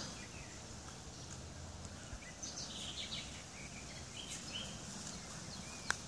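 Faint chirps from small birds, in a cluster from about two and a half to four and a half seconds in, over steady background noise, with one sharp click just before the end.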